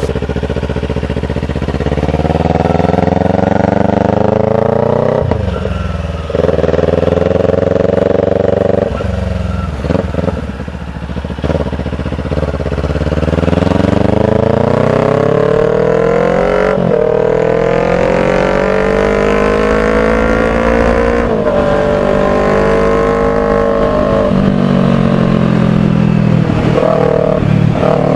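Kawasaki Ninja 400 parallel-twin motorcycle engine accelerating through the gears. Its pitch climbs and drops sharply at each shift, several times, then holds steady over the last few seconds.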